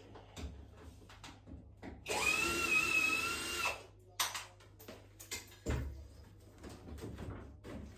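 A power drill or driver runs once for about a second and a half, a steady whine, amid scattered clicks and knocks of tools and parts being handled.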